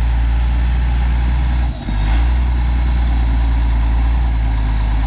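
1987 Ford L8000 turbo diesel truck engine running loud and steady with a thin high whine over it. It drops off briefly just under two seconds in, then picks back up.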